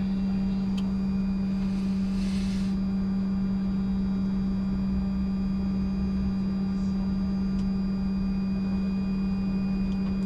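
Steady cockpit drone and hum of a Bombardier Challenger 605 with its right engine running, while the left engine start is under way on the starter. There is a short hiss about two seconds in.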